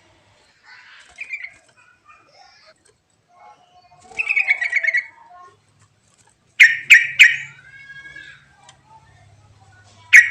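Lure song of a trucuk (yellow-vented bulbul type) songbird: scattered chirps, a quick chattering trill about four seconds in, then a burst of loud sharp notes followed by a short falling whistle, and two more sharp notes near the end.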